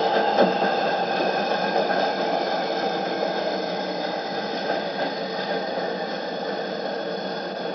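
Keisei 3200-series electric train's Mitsubishi MB3097-C3 traction motors with WN drive whining as the train slows, several tones falling gently in pitch while the level eases, over rolling wheel noise. The deceleration whine has a rough, muddied tone, typical of these Mitsubishi-motored 6M cars some years after their renovation.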